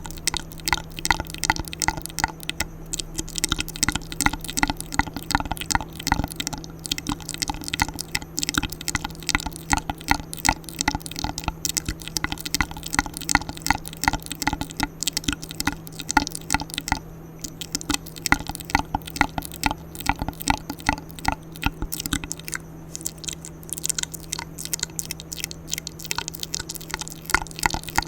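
Close-miked wet mouth sounds: irregular tongue clicks and lip smacks, several a second, over a steady low hum.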